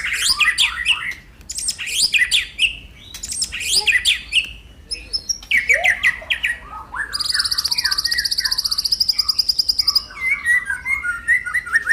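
A small pet bird chirping repeatedly while being hand-fed, with a rapid buzzy trill lasting about three seconds midway.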